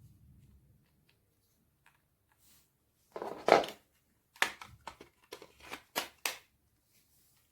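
Handling noises at close range: a loud rustling scrape about three seconds in, then a quick series of sharp clicks and knocks, like plastic or metal parts being handled.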